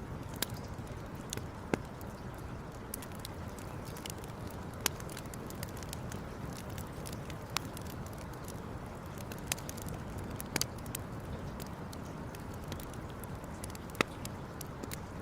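Campfire crackling: sharp, irregular pops and snaps of burning wood, about a dozen, the loudest near the end, over a steady low rushing noise.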